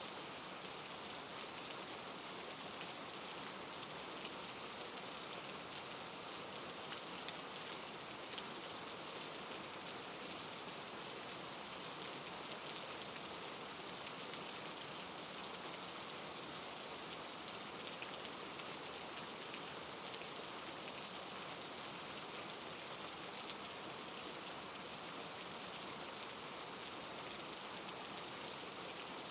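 Steady soft rain, a continuous even hiss with scattered faint drop ticks.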